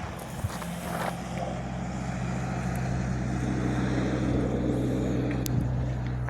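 An engine droning steadily with a low hum, growing a little louder toward the middle and then holding.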